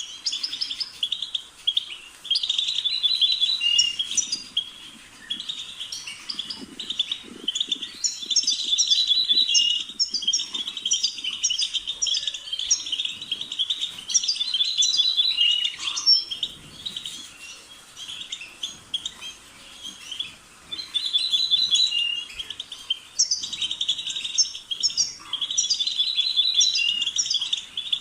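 European goldfinch singing: rapid, tinkling twittering phrases of a second or two, repeated with short pauses.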